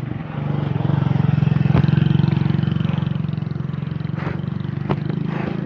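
A motor vehicle's engine running steadily, swelling about one to two seconds in, with a few faint clicks.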